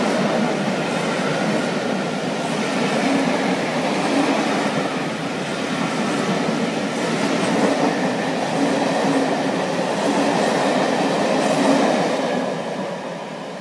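Passenger coaches of a steam-hauled train rolling past, their wheels rumbling and clacking on the rails. The sound dies away near the end.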